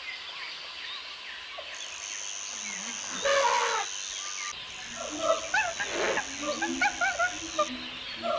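Animal calls: a single short call about three seconds in, then from about halfway a busy stretch of many short, quick chirping notes. A steady high-pitched tone runs under most of it.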